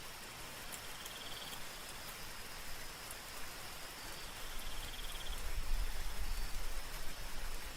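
Steady soft rain with scattered drop ticks, over which a night insect trills in two short bursts and a faint high insect tone holds steady. A low rumble swells in the second half and becomes the loudest part.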